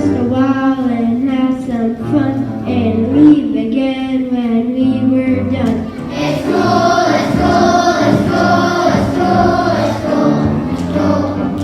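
Children's choir singing a song with instrumental accompaniment; about halfway through, the music gets fuller and a little louder.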